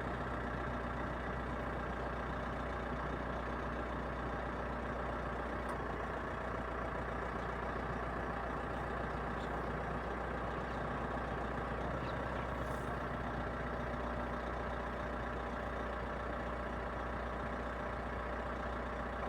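A steady engine hum with a low rumble underneath, unchanging throughout.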